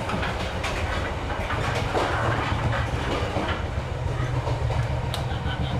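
Vietnam Railways sleeper train running, heard from inside a carriage: a steady low rumble of wheels on rails with irregular rattling and clicks from the carriage, and one sharper click about five seconds in.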